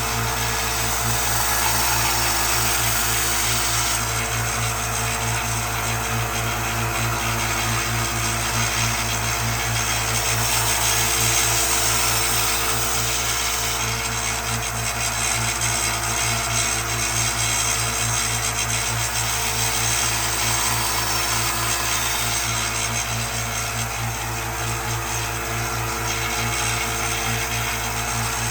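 Electric grinder running steadily, grinding the steel of an axe bit to about a 25-degree bevel: a constant motor hum under an abrasive hiss that swells and eases as the steel is pressed on and drawn off.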